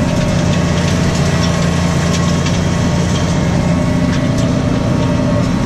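New Holland T6.155 tractor's diesel engine running steadily while pulling a plough.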